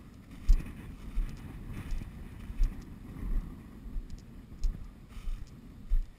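Footsteps of a person walking at a steady pace, a dull thud about every 0.7 s, with a light rustle between steps.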